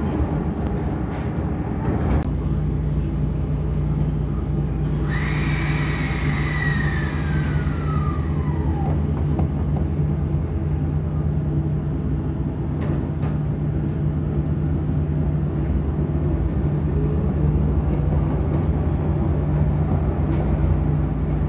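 Onboard sound of a Kotoden Shido Line electric train, a former Nagoya subway car, braking into a station: a whine falls steadily in pitch as it slows to a stop, over a steady low hum. A few short clunks follow while it stands, before it moves off again near the end.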